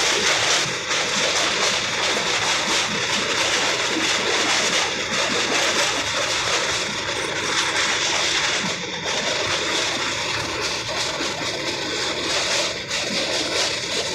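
Steady running noise of a train crossing a steel truss railway bridge, heard from inside the coach by the open window.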